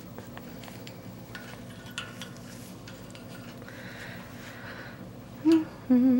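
Timneh African grey parrot making light clicking and tapping sounds, then near the end a short low call followed by a longer wavering one, the loudest sounds here.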